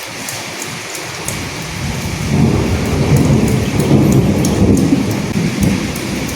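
Steady rain falling with scattered sharp drop ticks, and a low rumble of thunder that swells about two seconds in, peaks mid-way and fades near the end.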